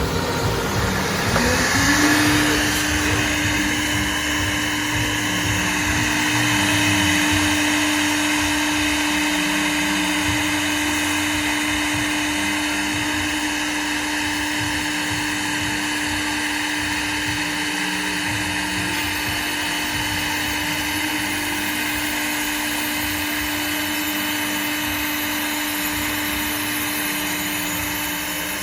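Spindle motor of a used three-head horizontal wood-boring machine spinning up with a rising whine in the first two seconds, then running at a steady pitch.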